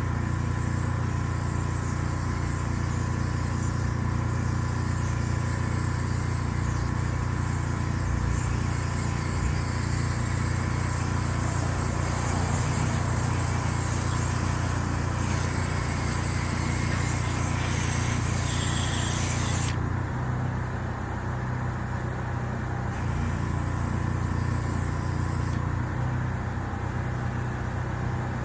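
An engine running steadily, a low, even drone with a faint steady whine above it.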